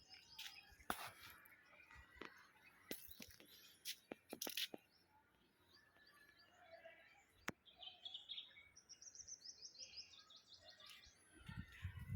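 Faint birdsong: small birds chirping, with a quick trill of rapidly repeated high notes about nine seconds in. A few faint sharp clicks are scattered through it.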